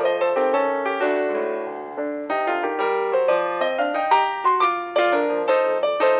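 Background piano music: quick melodic runs with a held chord about a second in.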